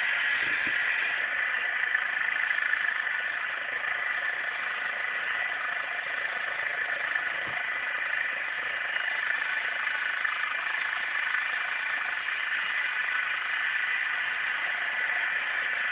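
Eurocopter EC135 twin-turbine helicopter running steadily: a constant engine and rotor noise with no change in pitch.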